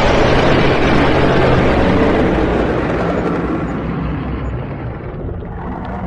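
Dragon sound effect: a loud, rough rush of noise with a low rumble beneath it, fading away gradually over about five seconds.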